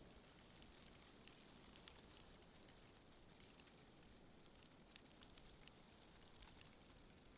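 Faint, steady wind ambience with scattered light crackling clicks.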